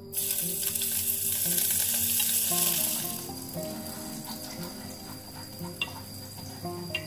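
Food dropping into hot oil in a frying pan: a sudden loud sizzle starts at once and stays strong for about three seconds. It then settles into quieter, steady frying as the pieces are stirred with chopsticks.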